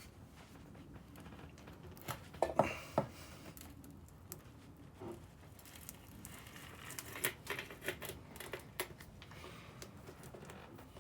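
Metal hook scraping and picking in a teak deck seam, tearing out old caulking: scattered short scratches and clicks, a cluster about two seconds in and more from about six to nine seconds.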